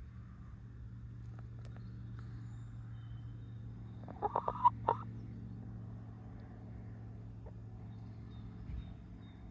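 Chicken clucking: a quick run of about five short clucks a little over four seconds in, over a steady low hum.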